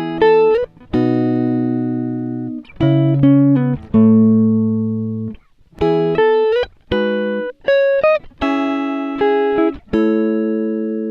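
Background music: a clean guitar playing single notes and chords, each struck sharply and left to ring and fade before the next, about one a second.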